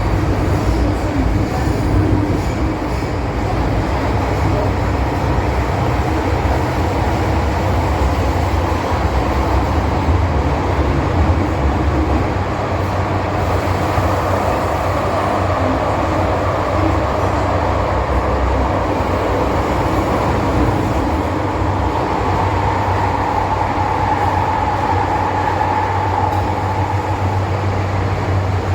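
MTR M-Train metro car running at speed between stations: a steady, loud rumble of wheels and running gear on the track, with a higher whine coming up for a few seconds in the second half.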